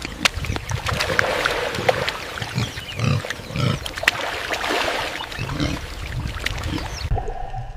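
Pigs grunting, a run of short low grunts over noisy rustling. The sound changes abruptly near the end, as if cut to another recording.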